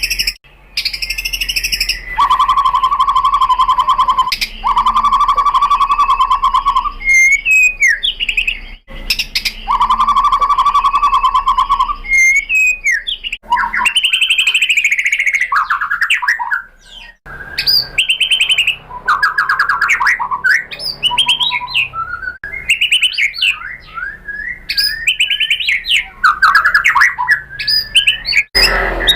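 White-rumped shama (murai batu) singing a loud, continuous song: long rapid trills held on one low pitch, alternating with varied whistled phrases, rising and falling glides, and chirps.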